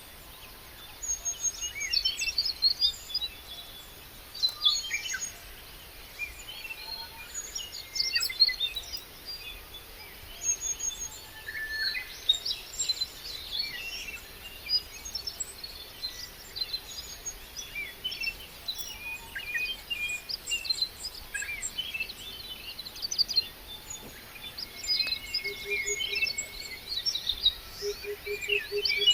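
Many small birds chirping and singing at once, short overlapping calls throughout.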